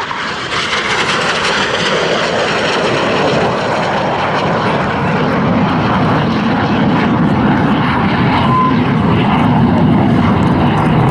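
Jet noise from Red Arrows BAE Hawk T1 jets, each with a single Rolls-Royce Turbomeca Adour turbofan, after a low pass. A steady roar whose high-pitched part fades after the first couple of seconds, leaving a lower rumble.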